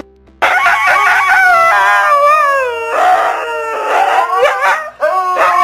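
Dog howling in long, wavering, gliding calls that begin about half a second in, with a short break near the end before the howl starts again.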